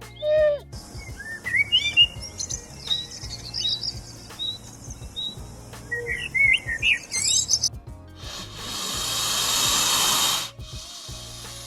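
Small birds chirping in quick, rising notes over background music. About eight seconds in, a loud hiss swells for about two and a half seconds and cuts off suddenly.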